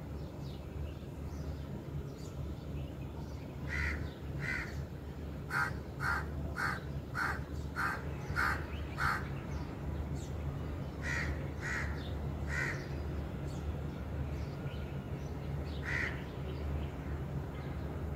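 A bird calling in short, repeated calls: a pair, then a quick run of about seven, roughly one every half second, then a few scattered single calls. Under them runs a steady low hum.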